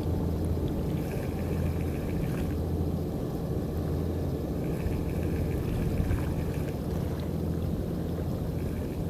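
A steady low engine drone, even in level, with water sloshing and lapping underneath.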